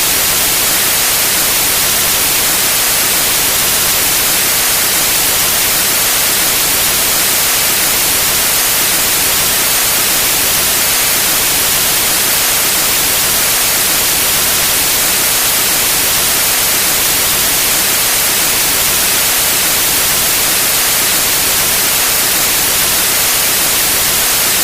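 Steady, loud white noise: an even hiss with no changes.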